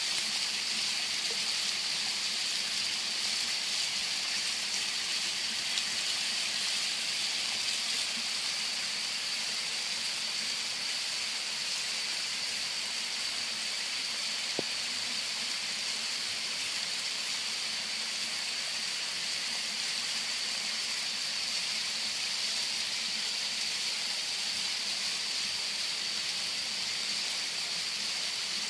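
Waterfall: a steady rushing of falling water, even and unbroken.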